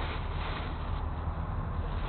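Steady low engine hum with faint background noise; nothing sudden.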